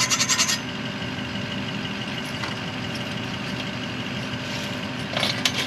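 Rapid scraping strokes for about the first half second, from a weep hole in a steel well pipe being cleaned out. Then an idling engine runs with a steady hum, and a short clatter comes near the end.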